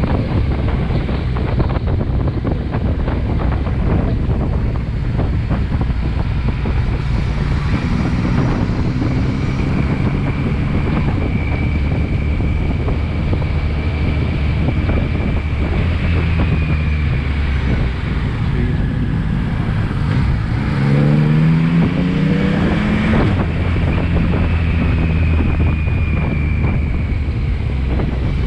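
Motorcycle engine running under heavy wind noise, holding a steady note for most of the time, then revving up with a rising pitch about three quarters of the way through before dropping suddenly, as at a gear change.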